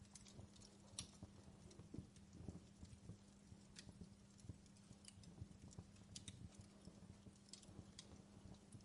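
Faint wood fire crackling in a fireplace: irregular small pops and snaps over a steady low hum.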